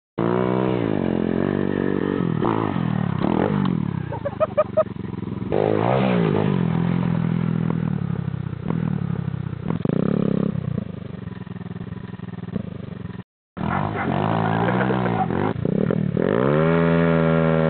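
Stomp 125X pit bike's small single-cylinder four-stroke engine revving up and easing off again and again as it is ridden. The sound cuts out completely for a moment about two-thirds of the way through.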